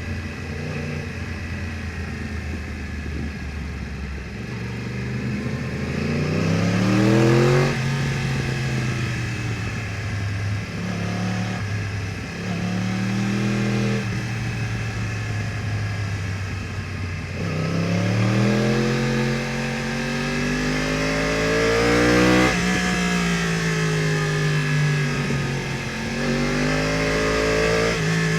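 2015 Yamaha R1's crossplane inline-four through an Akrapovič exhaust, accelerating repeatedly. The pitch climbs with the revs and drops sharply at each upshift, then settles or falls as the throttle eases between pulls.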